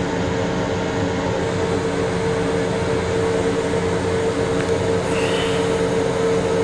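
Steady rumble and hum of a Long Island Rail Road M7 electric railcar, heard from inside its restroom, with a constant droning tone over the noise.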